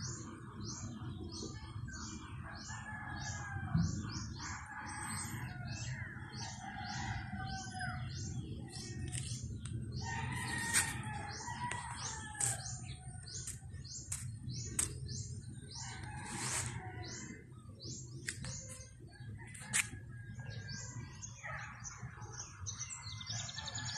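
Birds chirping in a quick, even series of short high notes, about two a second, mixed with other calls and a few louder sharp notes. A steady low rumble runs underneath.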